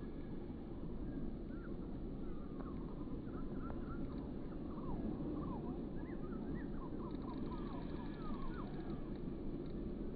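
Small birds chirping, many short up-and-down calls from a couple of seconds in until near the end, over a steady low background rumble.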